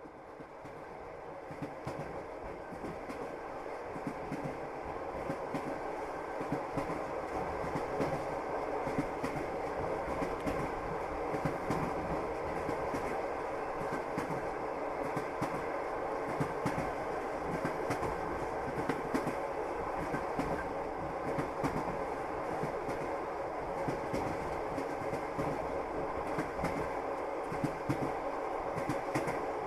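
Russian railway passenger wagons running along the track: a steady rolling rumble with the clickety-clack of the wheels knocking over rail joints. It fades in over the first few seconds, then runs on evenly.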